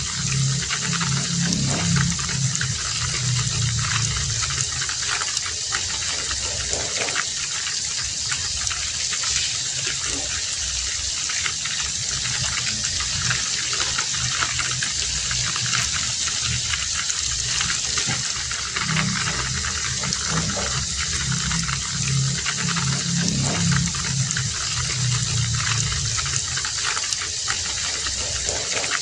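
Heavy rain falling steadily, an even hiss. A low, pulsing sound rises out of it twice, at the start and again past the middle.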